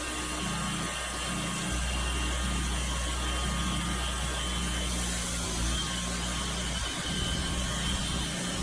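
Portable bandsaw mill's engine running steadily, with a constant low hum.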